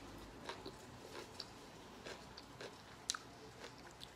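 Faint close-up chewing of a pickle slice: irregular short crisp clicks from the bites, the sharpest about three seconds in.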